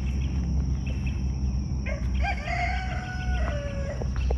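A rooster crowing once, a single drawn-out call of about two seconds that starts about halfway through, rises and holds, then drops at the end.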